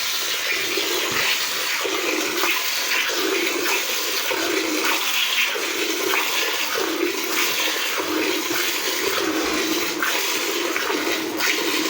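Milk squirting from a cow's teats into a pail during hand milking, in rhythmic streams about one and a half a second as the teats are pulled in turn, the milk now flowing fully after let-down.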